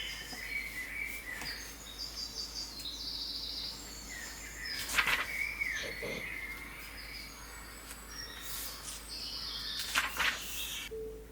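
Birds chirping in short repeated notes, with a sharp click about five seconds in and another near the end; the birdsong cuts off abruptly just before music begins.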